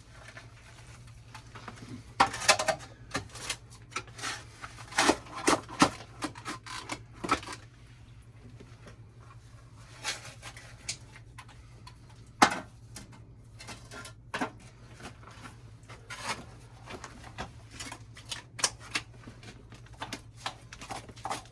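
Hand digging in loose soil: a digging tool scrapes and knocks in irregular strokes, now and then striking something harder. The sharpest knocks come about two and a half and twelve and a half seconds in.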